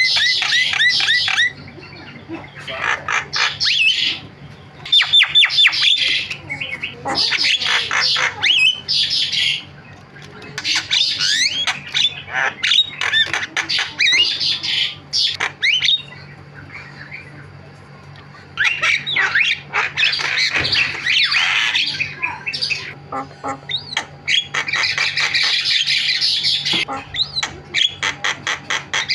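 Javan myna (jalak kebo) singing in chattering bouts of harsh squawks, rapid notes and whistled sweeps, with a short pause a little past halfway.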